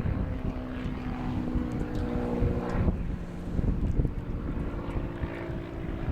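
Wind rumbling on the microphone, with the steady drone of a distant motor holding a near-constant pitch under it.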